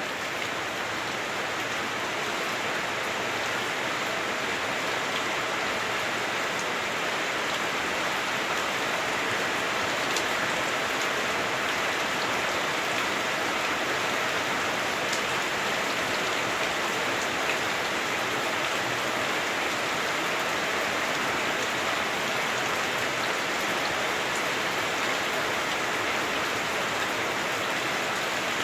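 Heavy rain falling on a house roof, heard from inside the house: a steady, even hiss of rain that sounds a bit clunky through the roof.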